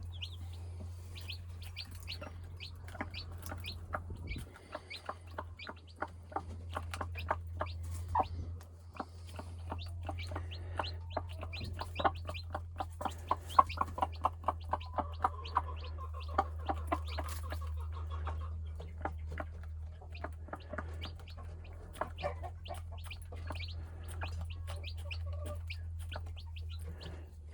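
Newly hatched chicks peeping in quick, continual chirps while a broody hen clucks to them, over a steady low hum.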